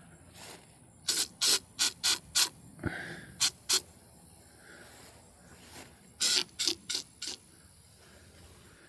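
Aerosol spray can fired in about a dozen short hissing bursts in three groups, with a low knock about three seconds in.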